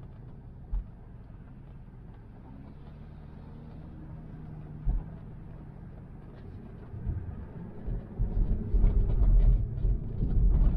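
Tyre and road noise heard inside a Tesla's cabin: a steady low rumble with a couple of single thumps, turning louder and bumpier from about seven seconds in.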